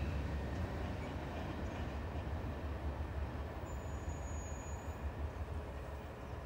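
Low rumble of a train moving away from the crossing, slowly fading.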